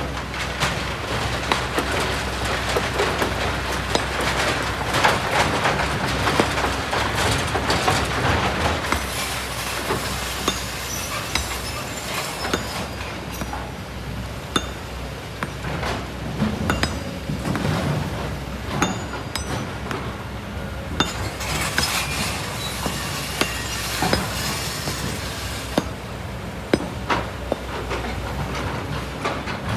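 Kobelco SK200 excavator digging in volcanic rock and sand: stones clattering and knocking against each other and the steel bucket over the steady run of the diesel engine. The clatter is busiest at the start and again a little past the middle.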